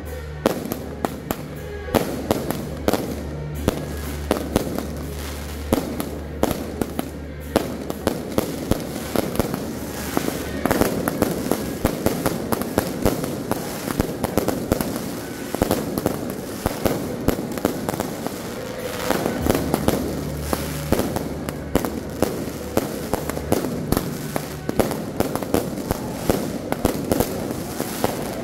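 Aerial fireworks going off in a dense, continuous string of sharp bangs and crackles, dozens a second at times.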